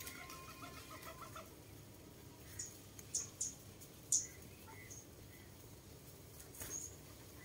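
Faint bird calls: a quick run of short clucking notes at the start, then a few brief, sharp high chirps spaced out over the following seconds.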